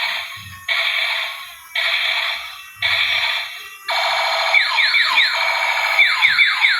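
Repeating electronic sound effects from a small speaker: bursts about a second long with short gaps, then from about halfway a longer stretch with a run of quickly falling chirps.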